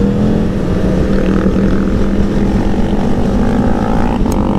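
Aprilia Tuono V4 1100 Factory's V4 engine running at steady revs while riding, heard onboard with wind rumble on the microphone.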